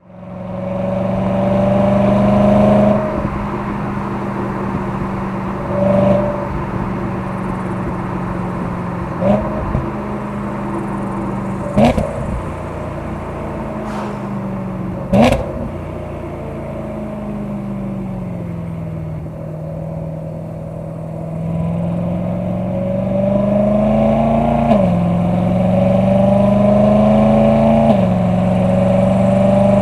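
BMW E92 M3's naturally aspirated S65 V8 through an M Performance exhaust, heard from outside the car while driving. It runs at a steady pitch, gives three sharp cracks between about nine and fifteen seconds in, and then the revs fall away. It then pulls up through the gears, the pitch rising and dropping back at two upshifts near the end.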